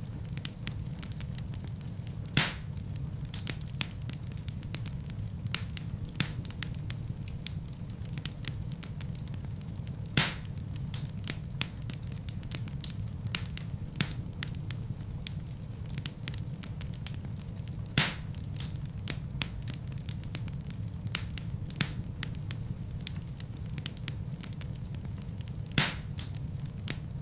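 Wood fire burning in a fireplace: a steady low rumble of flames with frequent crackles and four louder pops spaced about eight seconds apart.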